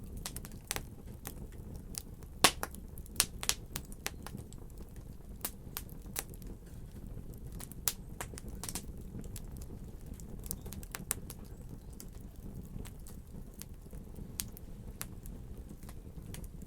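Fire crackling in a fireplace: irregular sharp pops and snaps over a steady low rumble, with the loudest pops clustered about two and a half to three and a half seconds in.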